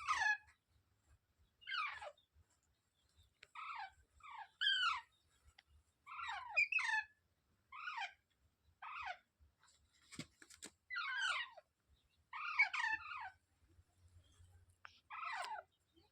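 Green pet parrot calling: a string of short, harsh calls, each falling in pitch, about one a second with short gaps between.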